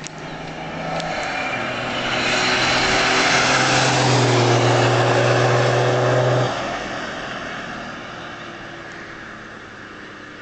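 Volvo 760's 2.4-litre six-cylinder turbodiesel pulling hard under full throttle, its injection pump turned up for about 1 bar of boost. The engine noise builds over the first few seconds, drops off suddenly about six and a half seconds in, then fades.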